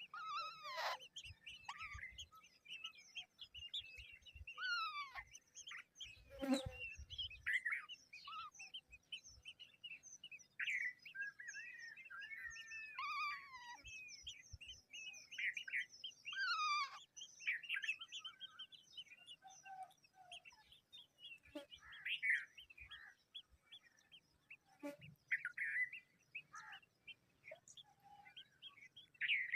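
Several birds chirping and calling over one another: dense short chirps and quick sweeping whistled notes with no pause, plus two sharp knocks, one about a quarter of the way in and one near the end.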